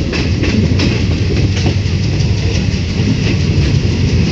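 Passenger train running through a station, heard from aboard: a steady rumble of wheels on the rails, with a few sharp clacks over rail joints in the first two seconds.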